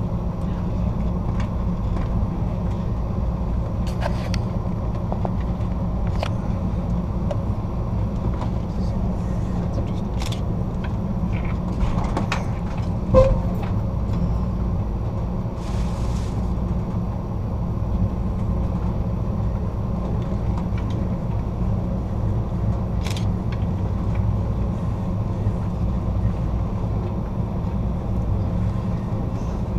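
Steady low rumble of a passenger train rolling along the rails, heard from inside the rear car, with a few faint scattered clicks and a brief hiss about halfway through.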